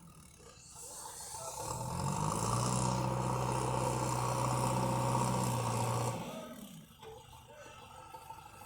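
Tractor engine rising in pitch, running at a steady high pitch for about four seconds, then fading away about six seconds in.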